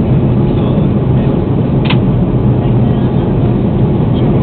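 Steady rumble of an Airbus A330 airliner heard from inside the passenger cabin: engine and airflow noise with a strong low hum, plus one short click about two seconds in.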